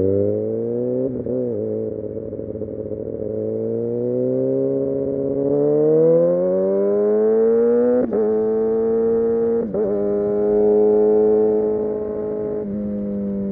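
Kawasaki Ninja ZX-6R's inline-four engine accelerating hard, its note climbing for several seconds with three brief breaks, then easing off and falling in pitch near the end.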